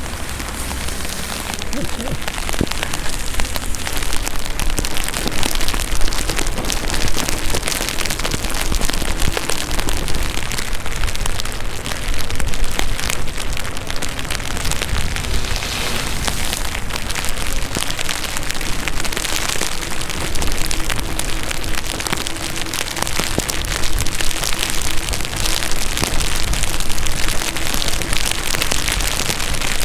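Heavy rain: a dense, steady patter thick with sharp drop hits, over a low wind rumble.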